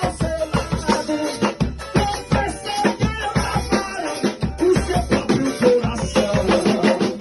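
Gospel band music with a fast, driving drum and percussion rhythm under a melody line.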